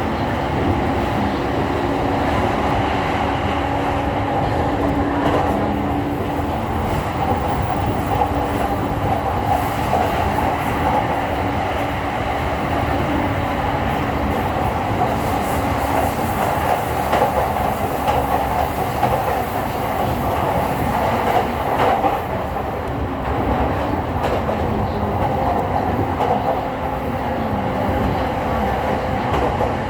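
A JR East E231 series electric train running at speed, heard from inside the car: steady wheel-on-rail rumble with clickety-clack over rail joints, and a steady low hum from the traction motors and drive.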